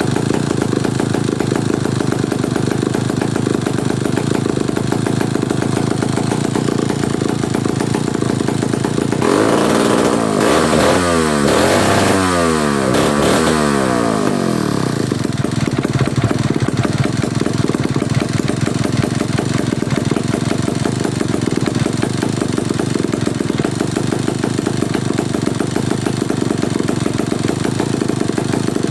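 Vintage Whitehead 105 two-stroke chainsaw running with a steady popping idle. About nine seconds in it is revved for around five seconds, the pitch sweeping up and down, then drops back to idle.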